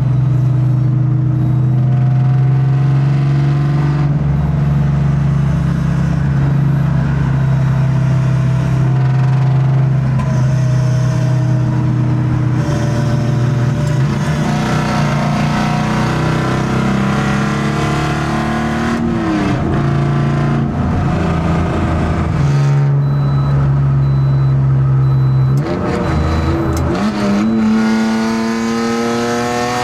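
BMW E30 M3's four-cylinder engine running under way, holding a steady note for long stretches. Twice it revs up with a rising pitch under acceleration, with a break between the climbs.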